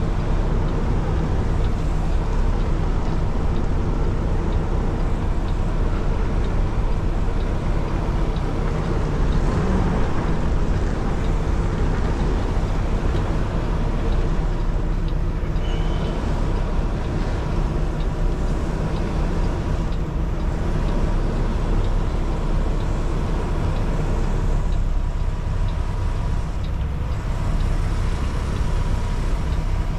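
Kenworth T680 semi truck's diesel engine running steadily at low revs.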